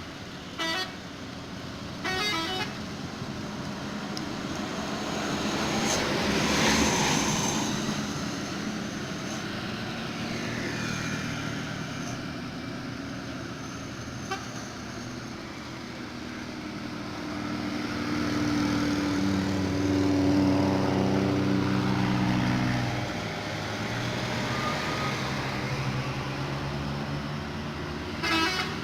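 Trucks passing on an uphill road with engines working under load, one engine's tone swelling and rising a little past the middle. Short horn toots sound twice near the start and once at the end.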